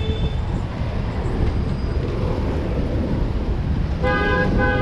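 Steady street traffic noise, with a vehicle horn sounding two short honks about four seconds in.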